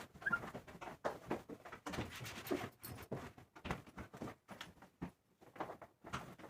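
Microfiber cloth wiping and rubbing over a fridge's outer surface: a run of quick, irregular scrubbing strokes with light knocks.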